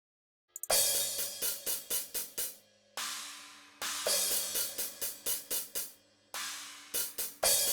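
Overhead microphone tracks of a DrumGizmo virtual drum kit played back on their own: hi-hats and cymbals only, with no snare, kick or toms in them. It starts about half a second in, with repeated sharp cymbal strikes and longer ringing cymbal washes about three seconds in and again past six seconds.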